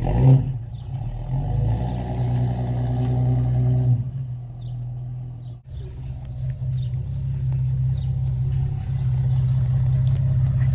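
Valiant CL Charger's Hemi 265 straight-six running, blipped briefly at the start and then running steadily. It now runs cleanly after a fuel blockage was cleared.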